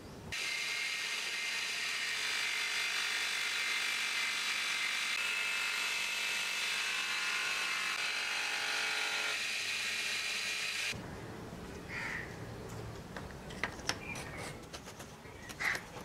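Electric bench motor running a buffing wheel while a steel knife blade is polished against it: a steady whine that cuts off suddenly about eleven seconds in, followed by quieter background with a few faint clicks.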